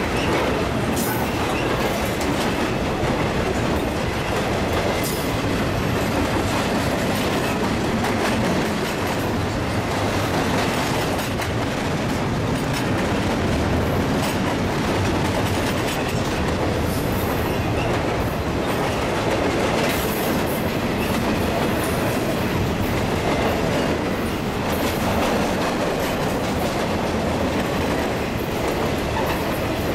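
Double-stack intermodal container well cars rolling past: steel wheels rumbling steadily on the rails, with a few sharp clicks.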